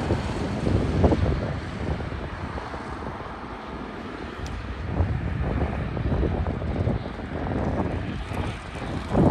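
Wind buffeting the microphone: an uneven low rumble that swells in gusts about a second in, around the middle and just before the end.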